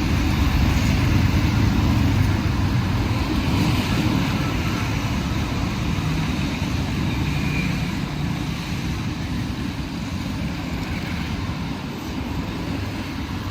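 City road traffic: a steady rumble of vehicle engines and tyres passing close by. It is loudest in the first few seconds and slowly fades toward the end.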